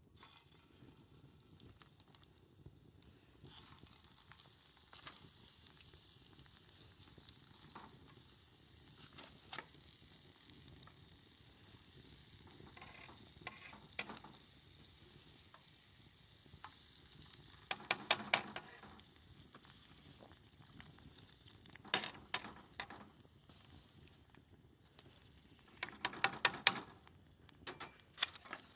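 Motsu (offal) stew sizzling in a pot over a campfire: a steady hiss, broken several times by bursts of sharp clicks and knocks, the loudest about two-thirds of the way in and near the end.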